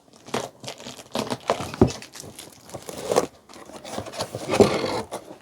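Packaging of a new rice cooker being opened by hand: irregular crinkling and rustling of plastic wrap and cardboard, with some tearing, busiest near the end.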